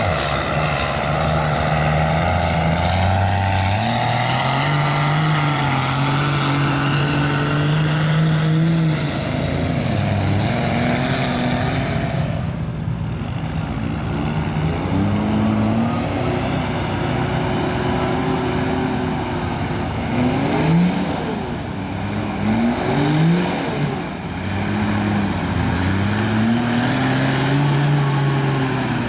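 Cummins diesel engine of a mud truck revving up and down under load as it slings mud, its pitch climbing and falling repeatedly, with a run of quick sharp revs about two-thirds through.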